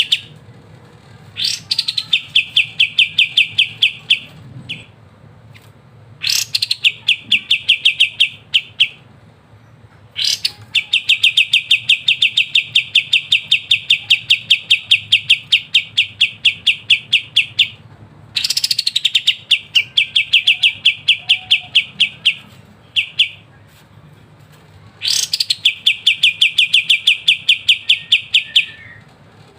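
Kapas tembak bulbul singing its rapid rolling 'ngebren' trill: runs of quickly repeated high notes, each opening with a short rising note, lasting from about two to seven seconds with brief pauses between them. A faint steady low hum lies underneath.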